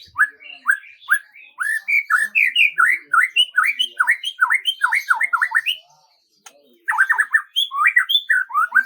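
A bird singing a rapid series of short, rising chirps, several a second, breaking off for a moment about six seconds in and then resuming.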